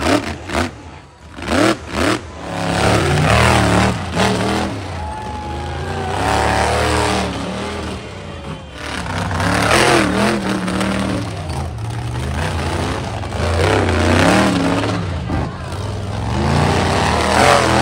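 Monster truck engine revving hard in repeated surges, rising and falling about every three to four seconds.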